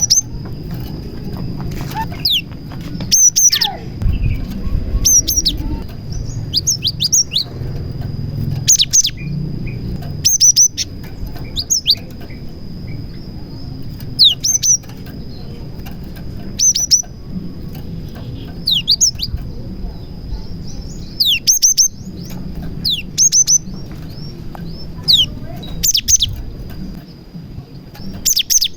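Cinereous tit (gelatik batu) singing, its song laced with mimicked prenjak phrases: clusters of two to four sharp, quickly falling high notes, repeated every second or two. A faint steady high whine and a low rumble lie underneath.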